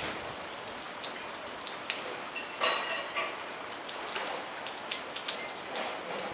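Steady rain falling, with many individual drips splashing on wet hard surfaces, and one brief louder sound with a ringing tone about two and a half seconds in.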